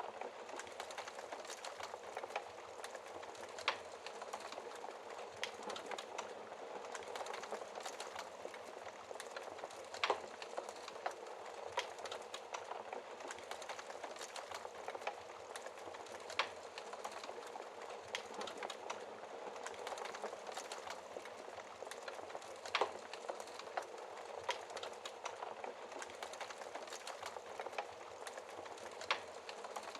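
Wood fire in a fireplace crackling, with a steady hiss and sharp pops every few seconds, the loudest about ten seconds in and again near twenty-three seconds.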